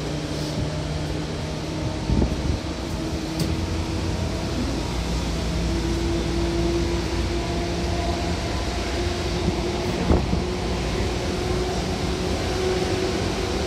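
Seibu 2000 series electric train running, heard from inside the carriage: a steady rumble of wheels on rail under a hum of several steady motor tones. Two sharp knocks come about two seconds in and again about ten seconds in.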